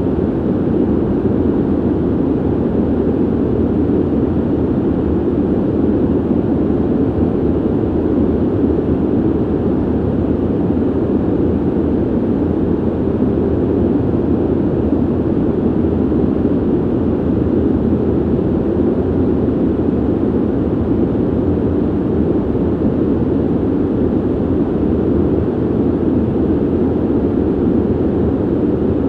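Ventilation system airflow: a steady, low-pitched rush of air with no changes.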